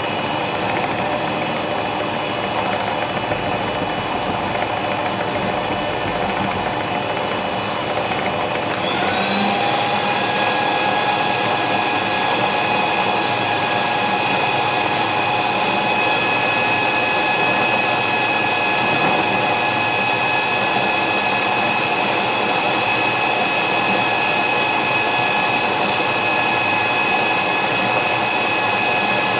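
Electric mixer running steadily on a batch of milk-and-egg pudding mixture, a motor whine with several steady tones. About nine seconds in its pitch glides up and it gets a little louder, as at a higher speed setting.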